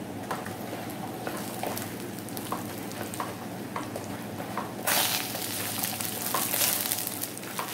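Banana slices sizzling in caramelised sugar and butter in a frying pan while a wooden spatula stirs them, with light taps and scrapes of the spatula on the pan. The sizzling turns louder about five seconds in.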